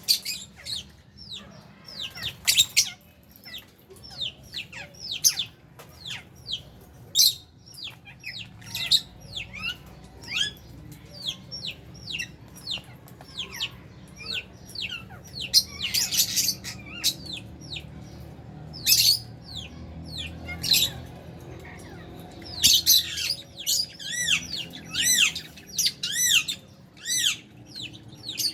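A flock of lovebirds and budgies chattering: a dense stream of short, high chirps, with louder shrill squawks every few seconds.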